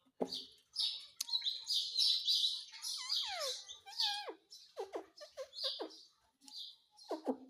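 Pet ringneck parrot chattering: a quick run of short high chirps and squawks, with a couple of falling whistles about three to four seconds in.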